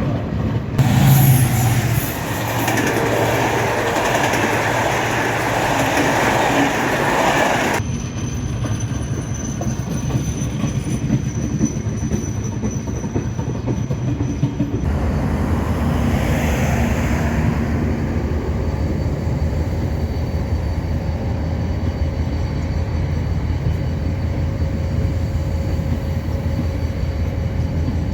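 Train running on the rails, with wheel and track noise. A loud rushing noise in the first several seconds cuts off suddenly, and from about halfway a steadier rumble with a low hum carries on.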